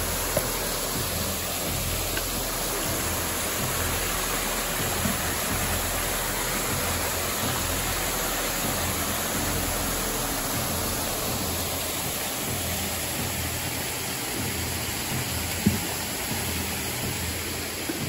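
Steady rush of a waterfall, with a single sharp knock near the end.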